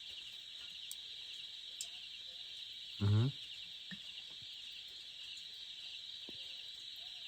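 Steady, high-pitched chorus of jungle insects such as crickets, with a short burst of a man's voice about three seconds in.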